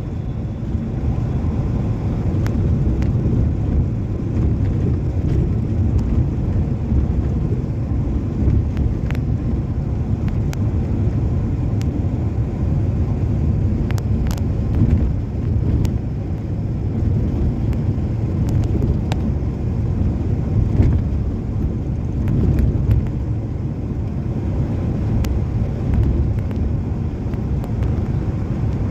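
Passenger train running: a steady low rumble of wheels on rails, heard from a carriage window, with a few scattered sharp clicks.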